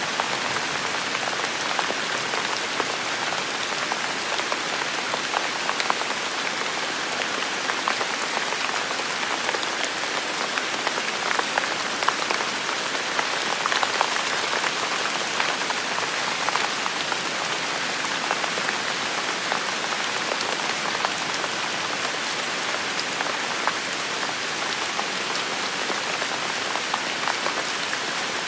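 Heavy rain falling steadily, a dense even hiss with many individual drops striking close by.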